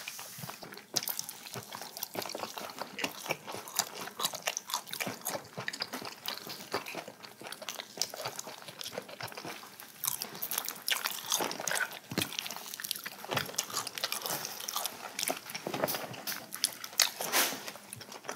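Close-miked eating of roast chicken and potato: chewing, biting and mouth smacks, with many small irregular crunching clicks.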